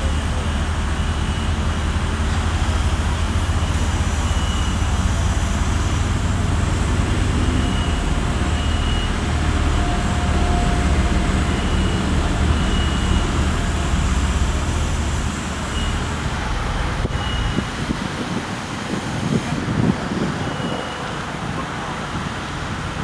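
Low, steady rumble of a heavy machine's engine under outdoor noise and wind on the microphone; the rumble falls away about two thirds of the way through.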